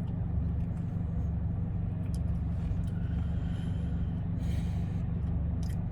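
Steady low engine hum, with a few faint clicks and a short rustle about four and a half seconds in.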